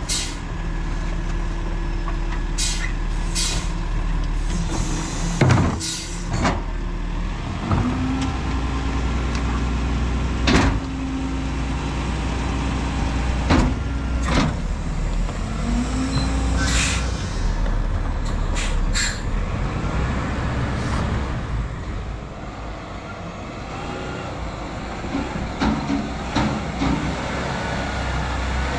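Autocar ACX split-body rear-loader garbage truck running, with several sharp bangs and an air-brake hiss. A steady hum comes in twice, for a few seconds each time.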